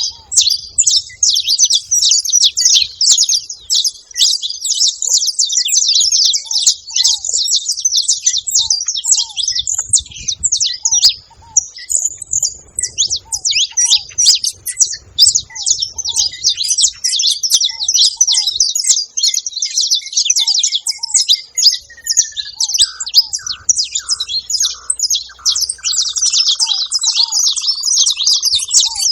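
A group of saffron finches chirping continuously in a dense, overlapping high-pitched chatter. Beneath it a lower, short call repeats about once a second, and a falling run of notes comes in near the end.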